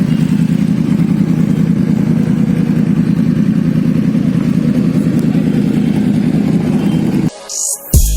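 Motorcycle engine running at a steady pitch, neither revving up nor dropping, and cutting off suddenly about a second before the end.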